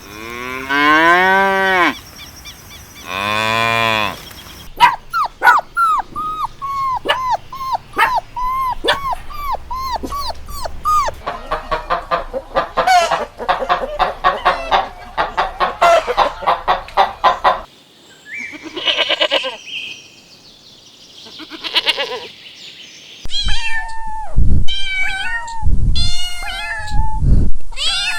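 Farm animals calling one after another. It opens with two long drawn-out moos from cattle, followed by long runs of short calls repeated about twice a second and then faster, and ends with loud, sharp barks over the last few seconds.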